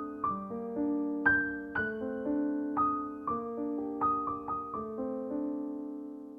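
Background piano music: gentle melody of single struck notes, about two a second, each ringing and fading.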